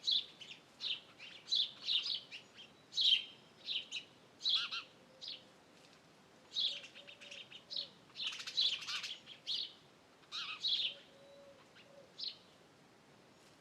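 Wild birds chirping and singing in short, quick phrases, several overlapping, thinning out to a few isolated chirps near the end.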